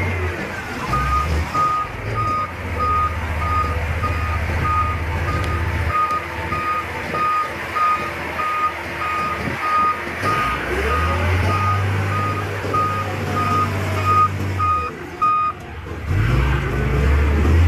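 Backup alarm on heavy earthmoving equipment beeping about twice a second over a diesel engine running and revving up and down; the beeping stops near the end.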